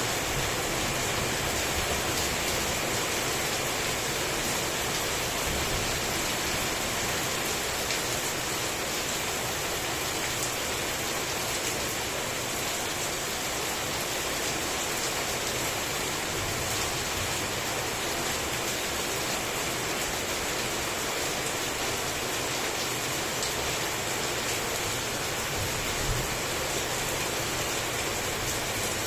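Heavy rain falling steadily, an even hiss of drops on surfaces with no distinct strikes.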